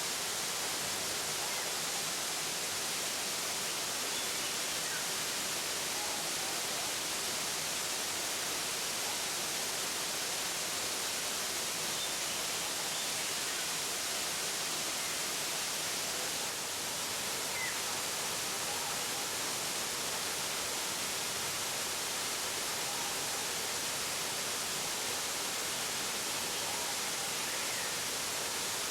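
Waterfall rushing steadily, an even hiss with no breaks.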